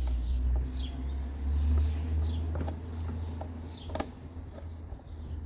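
Light metallic clicks of a Torx screwdriver and cylinder head bolt being fitted on a small two-stroke engine, the sharpest about four seconds in, over a steady low rumble. Short high chirps repeat in the background.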